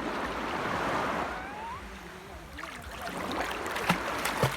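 Small sea waves washing in shallow water, then splashing from about halfway in, with two sharper splashes near the end as a child paddles and swims in the water.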